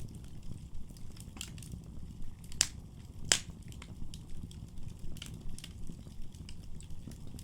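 Wood fire burning in a fireplace: a low steady rumble of flames with scattered crackles and pops, two sharp pops about two and a half and three and a half seconds in standing out as the loudest.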